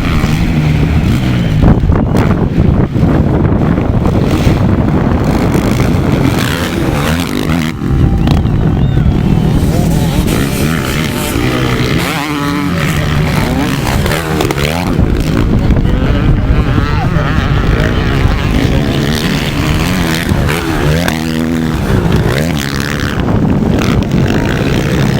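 Motocross motorcycles racing, engines running loud and continuously, their pitch climbing and dropping repeatedly as riders open and close the throttle and shift gears.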